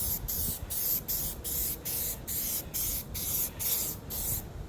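Aerosol spray-paint can sprayed in short, quick bursts of hiss, about three a second, stopping near the end.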